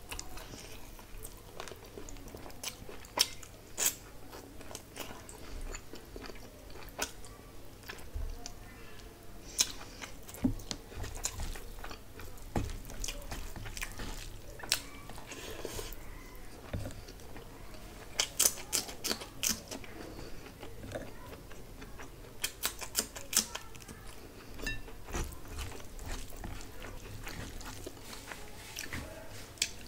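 Close-miked chewing and biting of rice and curry eaten by hand, wet and smacking, with many sharp mouth clicks that come thicker in two flurries past the middle.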